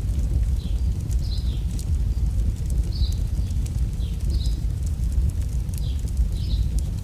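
AI-generated campfire crackling, with sharp pops over a steady low rumble, and short high chirps like a bird's that repeat every second or so.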